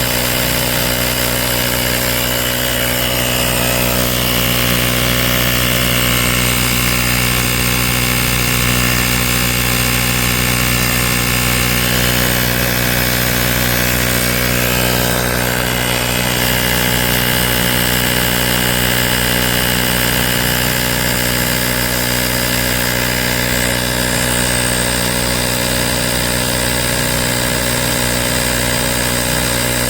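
AstroAI L7 cordless electric air compressor running, its small motor-driven pump making a loud, steady buzz.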